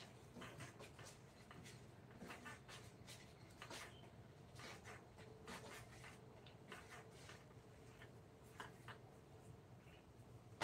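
Faint, irregular scratching and scraping strokes of a hand tool working on wood, a stroke every half second or so, with a faint steady hum beneath.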